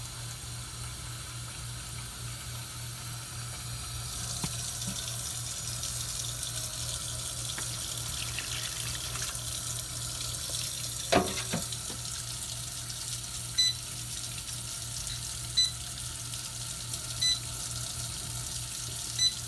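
Kitchen tap running steadily, filling a bowl with water; the flow grows louder about four seconds in. A single knock comes about halfway, and four short high electronic beeps sound near the end.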